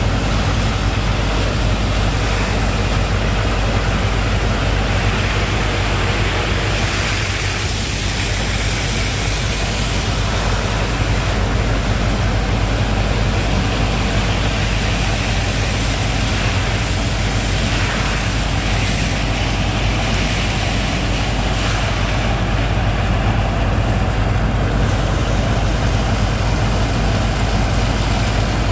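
Sand-pumping rig's engine running steadily under load, with a loud, even rushing of water and sand through the pump.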